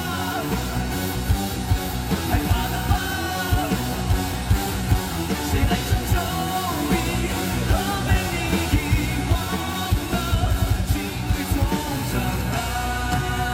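Rock band playing live, with drums, guitars and singing at festival volume; the drums drop out near the end, leaving held chords.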